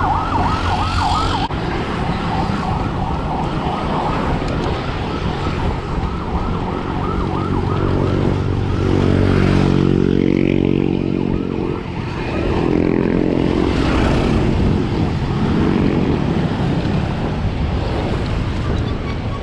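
Wind rushing over the microphone during a bicycle ride. In the first few seconds a quickly repeating rising yelp, about four a second, fades out. From about 8 s to 16 s a motor vehicle's engine hums past, loudest around 10 s.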